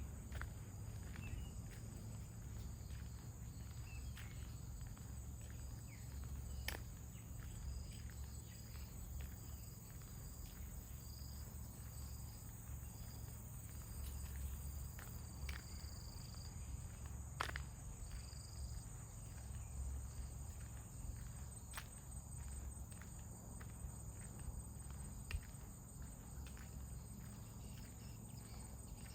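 Outdoor ambience of insects trilling steadily, with short faint chirps now and then, soft scattered footsteps and a low wind rumble.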